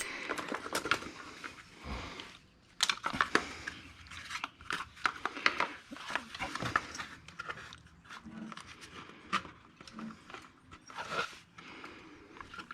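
Hands handling small carburetor parts and bolts: scattered light clicks, taps and rustling, irregular throughout.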